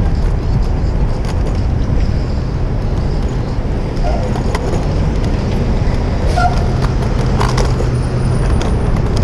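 City street traffic heard from a moving bicycle, under a steady, loud low rumble of wind on a bike-mounted action camera's microphone, with a few light clicks and rattles.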